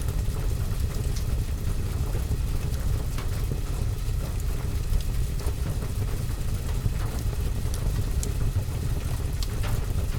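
Steady rain ambiance with a deep, constant rumble underneath, mixed with a fireplace fire giving scattered sharp crackles and pops.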